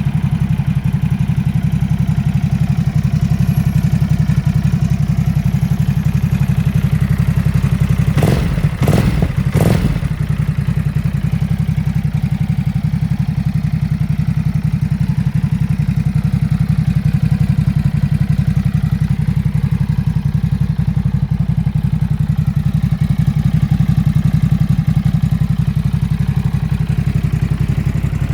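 Ducati Supersport 950 S's 937 cc L-twin engine idling steadily. Three sharp knocks come about eight to ten seconds in.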